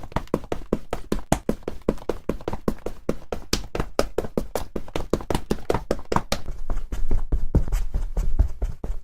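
A fast, even run of sharp taps or clicks, about six a second, with a low rumble coming in over the last couple of seconds.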